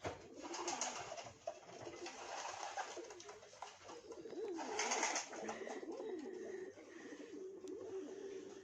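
Pigeons cooing in a low, wavering, repeated warble, with a short rustling burst about five seconds in.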